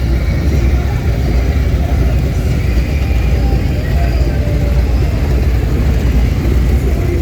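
Motorcycle engines rumbling steadily and loudly, with faint voices underneath.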